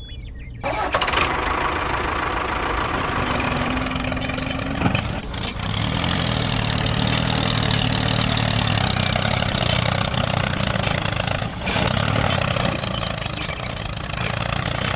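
Vehicle engine running steadily, coming in about a second in, with a few sharp knocks along the way.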